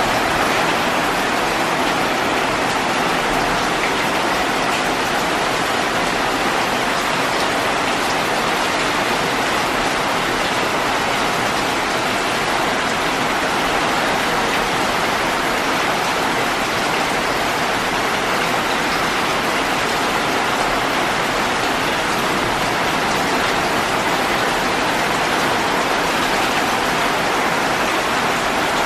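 Heavy rainstorm pouring down steadily, a dense even hiss of raindrops hitting leaves and trees, with no letup or single louder event.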